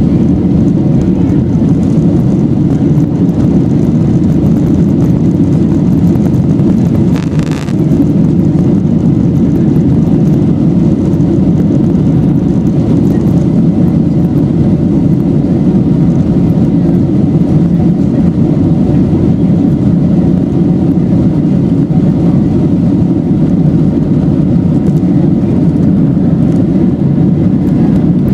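Boeing 737's CFM56 turbofans at high thrust heard from inside the cabin: a loud, steady rumble with a brief dip about seven and a half seconds in.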